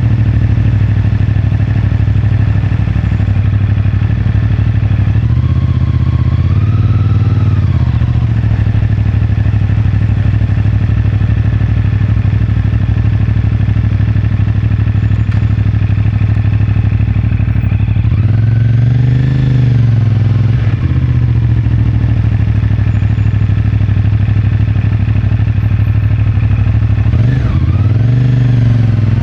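CFMoto 450MT's parallel-twin engine running steadily through its stock exhaust at low revs. Three times the pitch rises briefly and falls back as the throttle is blipped.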